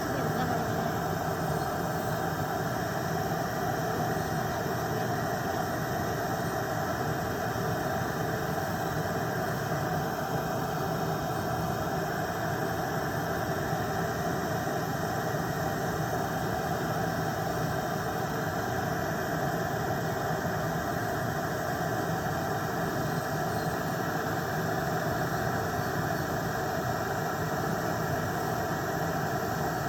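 Electric nail drill (e-file) running steadily with a high whine, its bit filing off gel nail polish.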